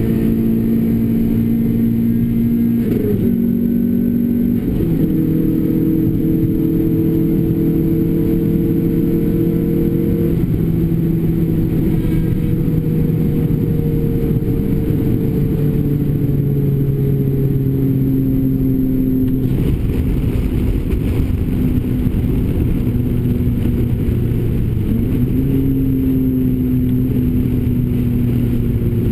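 Renault Clio RS engine and Bastuck aftermarket exhaust running hard on track, tyres and road noise underneath. The engine note shifts pitch several times with gear changes and throttle, holding steady or slowly sagging between them.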